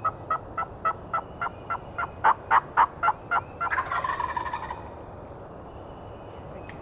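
Wild turkey calls: a run of about a dozen evenly spaced yelps, roughly three or four a second and loudest toward the middle of the run, followed by a rattling gobble lasting about a second.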